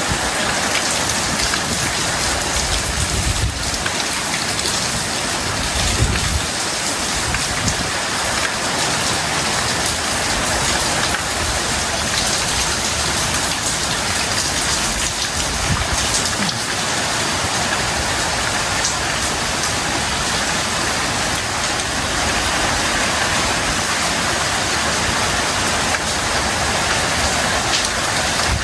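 Heavy tropical rain falling steadily, with a few brief low gusts of wind buffeting the microphone.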